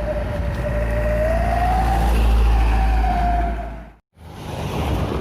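A passing truck's horn held in one long note that wavers slowly in pitch, over the deep rumble of the truck's engine; the sound cuts off abruptly about four seconds in.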